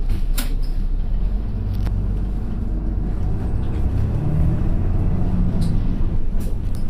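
Route bus running on the road, heard from inside the cabin: a steady low engine and road rumble, with a few sharp clicks from the cabin.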